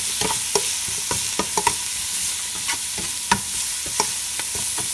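Herbs and paste sizzling in hot oil in a large metal pot while a metal utensil stirs them, with irregular clicks and scrapes of metal against the pot. The aromatics are being fried until fragrant.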